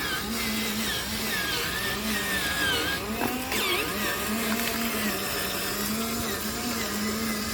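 Small electric motor of an RC truck whining, its pitch rising and falling as the throttle changes.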